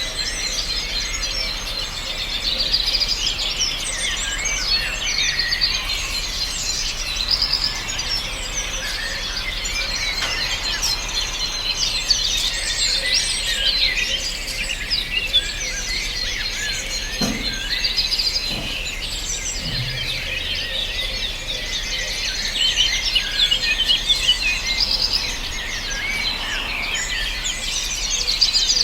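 Many songbirds singing and chirping at once, a dense chorus of overlapping short high chirps and trills that never lets up.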